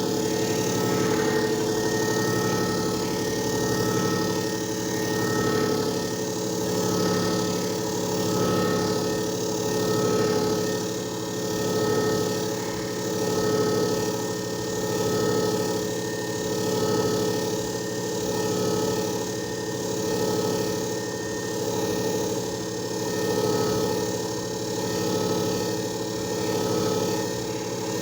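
JFJ Easy Pro disc repair machine running a timed resurfacing cycle: a steady motor hum with a whirring tone that swells and fades about every second and a half.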